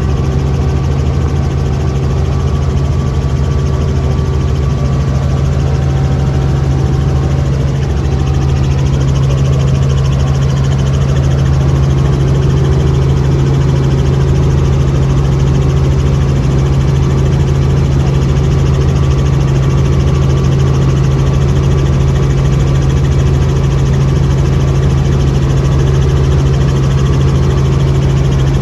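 Helicopter engine and rotor noise: a loud, steady drone with a strong low hum that does not change.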